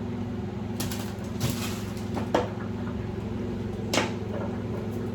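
Clicks and knocks of kitchen items being handled, four sharp ones: about a second in, about a second and a half in, the loudest about two and a half seconds in, and another near four seconds, over a steady low hum.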